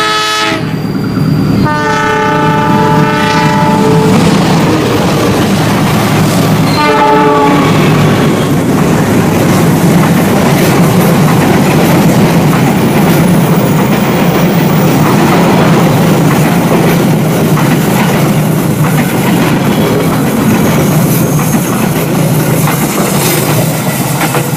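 Diesel locomotive horn blasts: a short one at the start, a long one a couple of seconds in, and another short one around seven seconds. Then the loud steady rumble and clickety-clack of two passenger trains passing each other on double track.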